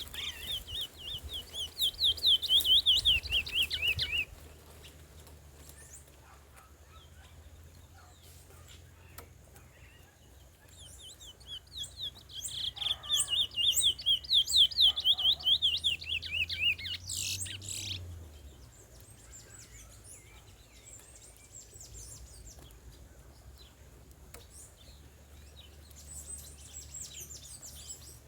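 Curió (chestnut-bellied seed finch) singing: a four-second bout of rapid, high, repeated notes at the start, a second, longer bout about halfway in, and a faint snatch near the end.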